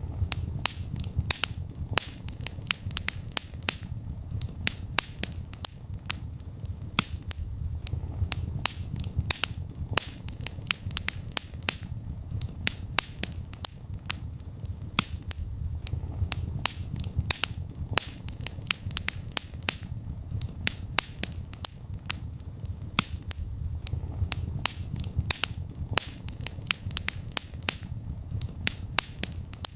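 Wood fire crackling in a fireplace, with many sharp pops and snaps, several a second, over a low rumble of the flames that swells and eases.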